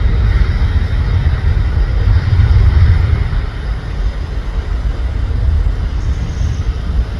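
Boeing 767-300ER freighter's twin jet engines at takeoff power: a loud, deep rumble that peaks about two to three seconds in, then slowly fades.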